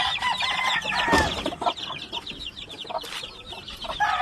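Hens clucking while chicks peep rapidly in a thick chorus that thins out after the first second; a single knock about three seconds in.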